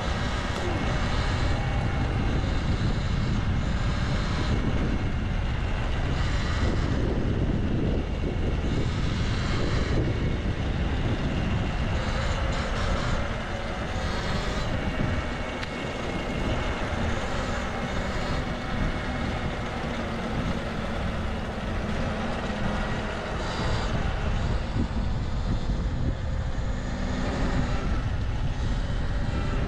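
City street traffic heard from a moving bicycle: passing vehicle engines over a steady, heavy low rumble.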